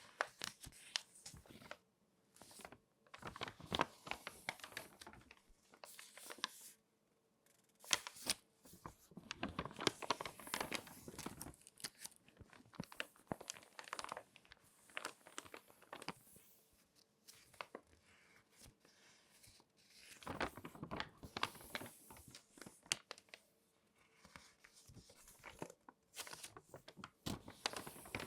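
Crinkly magazine pages being handled and folded: paper crinkling and crackling in bursts of a few seconds, with short pauses between them.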